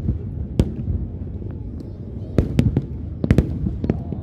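Aerial fireworks shells bursting: about eight sharp bangs, one early and a quick run of them in the second half, over a continuous low rumble.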